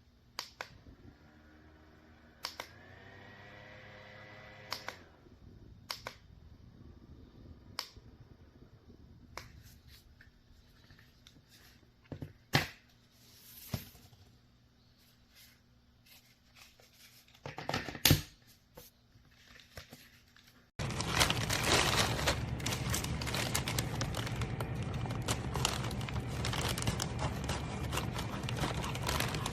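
Small handheld USB fan being handled: sharp clicks, and the fan's small motor whirs briefly, rising in pitch as it spins up, about a second in. From about two-thirds of the way through, a sudden loud, continuous crinkling rustle takes over.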